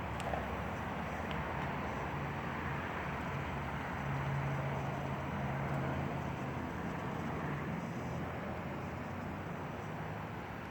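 Steady vehicle engine noise with a low hum that wavers in pitch, a little louder about four to six seconds in.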